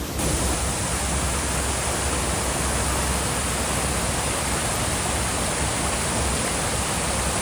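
Steady rush of falling water, an even noise with no breaks, loud and full of high hiss.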